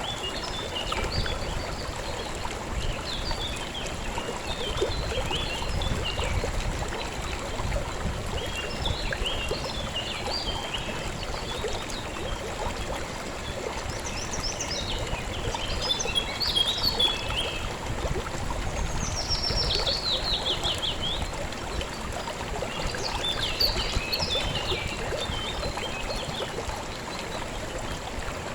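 River water flowing and trickling steadily, with small birds singing in short chirping phrases every few seconds, one of them a quick run of notes falling in pitch.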